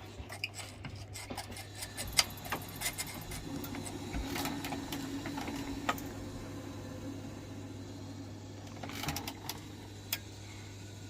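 Sharp metal clicks and knocks of hand tools and fittings being handled at a boiler's hot water isolation valve, over a steady low hum. The clicks come thickly at first, thin out, then cluster again near the end.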